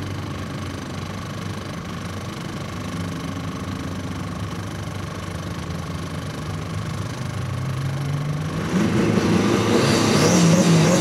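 Fiat hatchback JTD turbodiesel engines idling side by side, then about eight seconds in the revs rise and the engines get louder, held high for the start.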